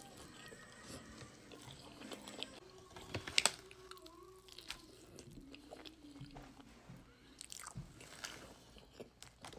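Close-up eating sounds: biting and wet chewing of sauced chicken wings and fries, with a louder sharp bite a little after three seconds in.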